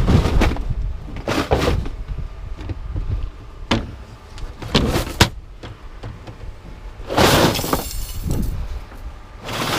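Pieces of scrap metal being thrown down onto a pile, several separate clanks followed by a longer clattering crash near the end, over a constant low rumble.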